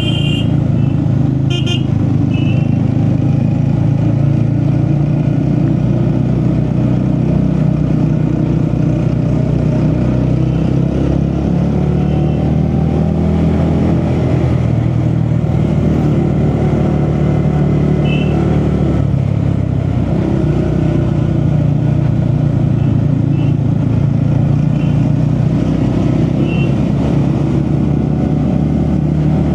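TVS Ronin motorcycle's single-cylinder engine running steadily while riding at a constant pace, with a low, even hum.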